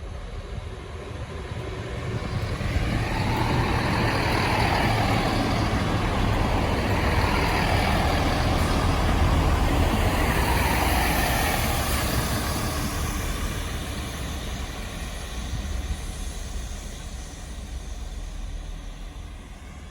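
A train running past close by, its rumble and rail noise swelling over a couple of seconds, staying loud through the middle, then fading.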